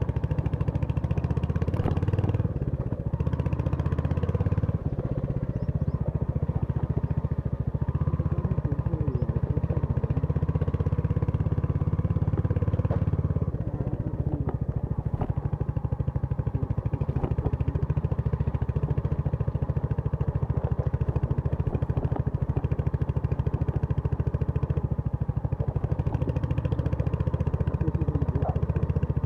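Royal Enfield Hunter 350's single-cylinder engine running steadily on a ride, dipping briefly about halfway through.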